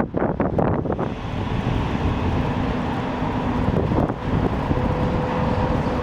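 Train running through the station with a steady rumble. A faint, steady electric whine joins in about halfway. Wind buffets the microphone in the first second.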